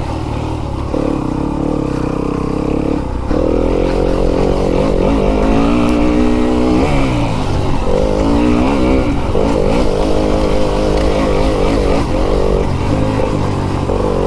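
Fantic enduro dirt bike engine running hard under load, its pitch repeatedly climbing as the throttle is held open and dropping sharply when the rider shifts or backs off.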